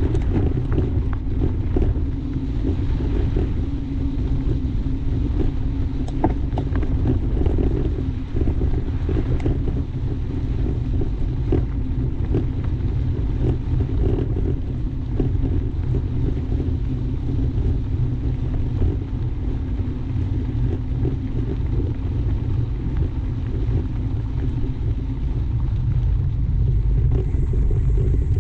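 Steady low rumble of wind buffeting the microphone and tyres rolling over a dirt trail as a mountain bike is ridden, with scattered small knocks and rattles from bumps.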